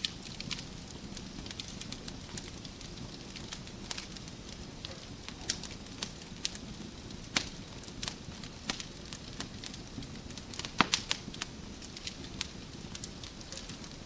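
Wood fire in a fireplace crackling steadily, with a low rumble and hiss under irregular sharp pops and snaps of the burning logs. A quick cluster of the loudest pops comes near the end.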